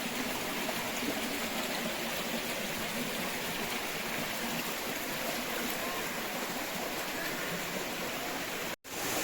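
Small rocky river rushing and gurgling steadily. The sound drops out for an instant near the end, then resumes.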